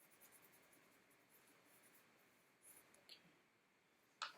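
Faint handling of paper and card: a soft rustle, then a light tap about three seconds in and a sharper click near the end.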